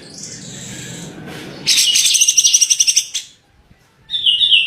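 Songbird singing: a loud, fast, high trill from about a second and a half in to about three seconds, then after a short pause a run of quick high stepped notes near the end.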